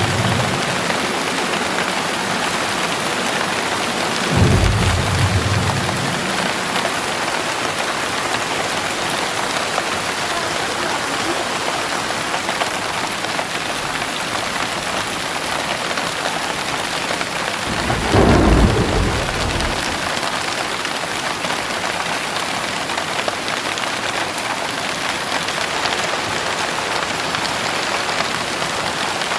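Heavy rain falling steadily. Low thunder rumbles swell briefly about four and a half seconds in and again about eighteen seconds in, and another begins near the end.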